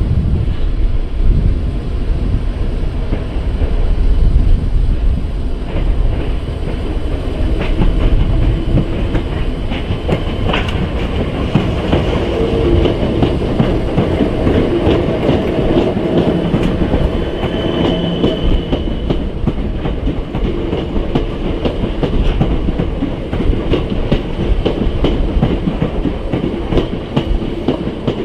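A pair of Class 455 electric multiple units pulling out and running past close by. The wheels click over the rail joints over a steady low rumble, and a motor hum rises around the middle of the pass.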